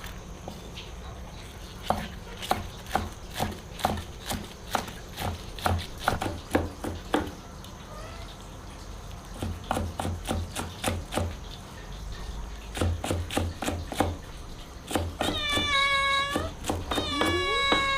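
A run of sharp, irregular knocks or taps, then a cat meowing: a few long, pitch-bending calls in the last few seconds.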